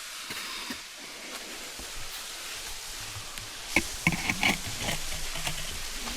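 Steady rushing hiss of falling water, with a short cluster of knocks about four seconds in.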